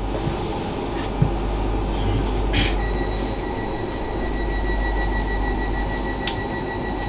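Inside a passenger train carriage under way: the steady low rumble of the train running on the rails. About three seconds in, a steady high whine joins it, with a few faint clicks and a brief hiss.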